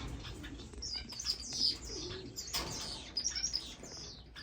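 Many small caged finches chirping, a dense run of short high calls overlapping one another.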